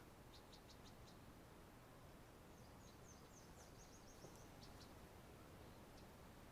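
Near silence with faint, high, quick bird chirps: a short run of about five near the start and a longer trilling series around the middle.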